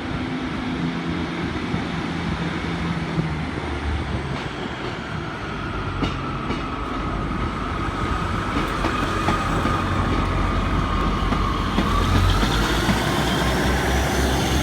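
British Rail Class 150 Sprinter diesel multiple unit pulling out, its underfloor diesel engines running and growing louder as it picks up speed. A whining tone climbs in pitch in the last few seconds.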